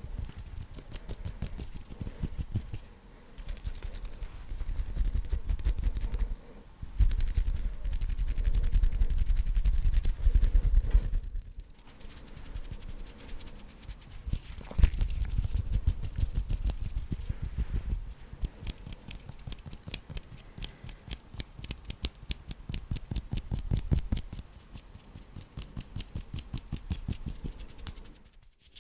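Hands moving fast right against the microphone: fast finger flutters and taps in a dense stream of tiny clicks, with deep rumble from the close contact. There are louder, heavier stretches about a quarter and half way through.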